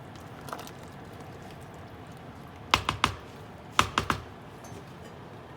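A cooking utensil clicking against a pot in two quick sets of about three sharp taps, a second apart.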